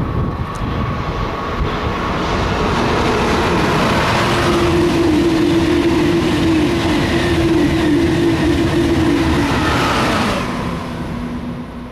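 Eurostar high-speed train passing at speed: a rush of wheel and air noise swells and holds loud for several seconds with a steady hum, then drops away quickly as the rear passes about ten seconds in.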